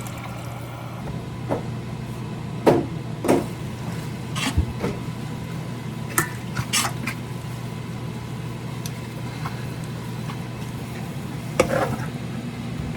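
Kitchen work sounds: a few scattered clinks and knocks of utensils against bowls or pans over a steady low hum.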